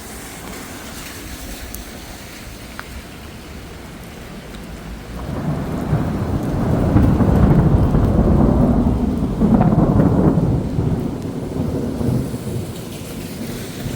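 Thunder after a lightning flash: a long low rumble that builds about five seconds in, stays loud for several seconds and dies away near the end, over steady heavy rain.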